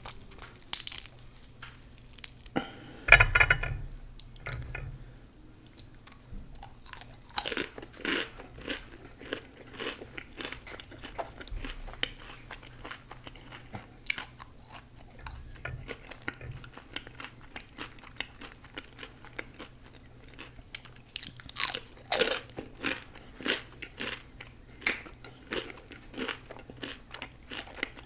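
Eating sounds: biting, crunching and chewing food as a run of sharp crisp crunches, with a loud bite about three seconds in.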